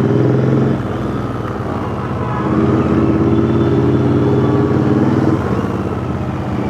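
Royal Enfield Interceptor 650's parallel-twin engine running through a custom two-into-one exhaust as the bike is ridden. Its note comes up on the throttle, eases off about a second in, picks up again around two and a half seconds in, and eases off again near the end.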